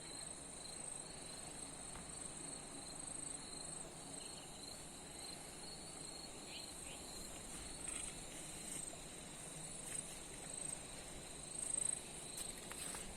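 Crickets calling in a steady chorus of high, slightly pulsing trills, with a few brief clicks and a short louder sound near the end.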